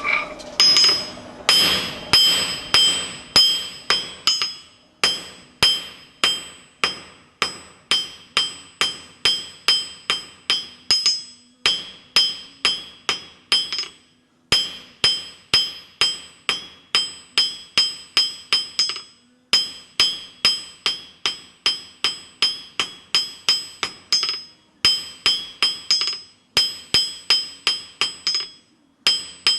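Blacksmith's hammer striking hot steel on an anvil, about three blows a second in runs broken by short pauses, each blow leaving a high bright ring from the anvil. The smith is drawing out a taper on square bar stock.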